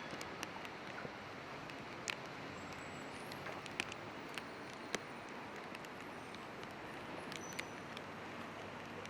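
Steady hiss of falling rain on a city street, with scattered sharp ticks of drops landing.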